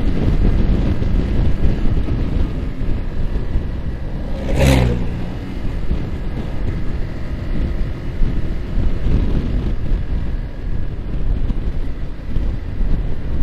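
Yamaha R15's single-cylinder engine running at a steady cruise under heavy wind rush on the microphone, with one brief louder surge about four and a half seconds in.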